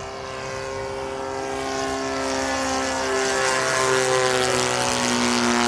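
Engine and propeller of a giant-scale radio-controlled Cessna 150 model airplane in flight, a steady drone growing louder as it comes closer, its pitch shifting slightly partway through.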